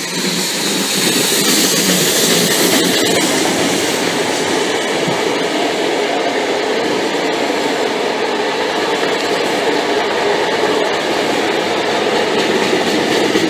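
A PT47 steam locomotive and its coaches passing close by, the coaches rolling past in a steady noise. Near the end the SU42 diesel locomotive pushing at the rear comes by, its engine running.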